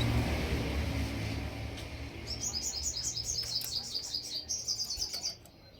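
A small songbird singing a quick run of high chirps, about five a second, that speeds into a faster trill and stops abruptly near the end. A low rumble fades out over the first two seconds.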